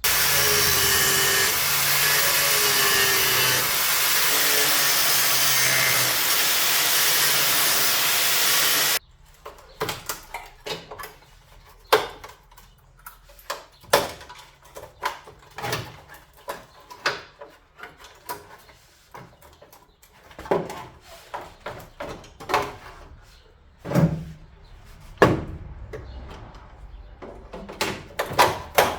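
Power tool cutting through the car's rusty sheet-steel body panel, a loud steady cutting noise that stops abruptly about nine seconds in. Then irregular metallic knocks and clatters follow.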